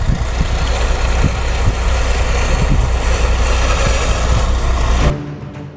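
Heavy diesel engine running steadily, deep and low. It cuts off abruptly about five seconds in, where music starts.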